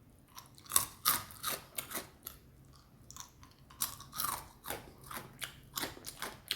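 A person chewing and smacking food close to a microphone: irregular wet clicks and crunches, some in quick clusters.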